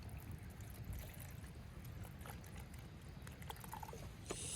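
Low steady rumble of wind on the microphone with a few faint ticks of handling; about four seconds in, a short hiss with a couple of sharp clicks.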